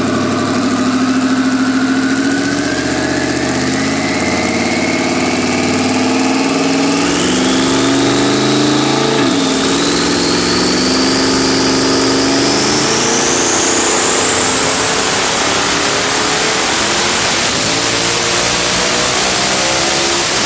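Twin-turbo Ford Coyote 5.0 V8 in a Mustang running hard under load on a dyno, in one long pull. A whine climbs steadily in pitch throughout the pull.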